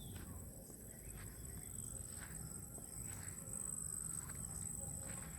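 Footsteps on a forest path, about one step a second, over a steady high-pitched background hum.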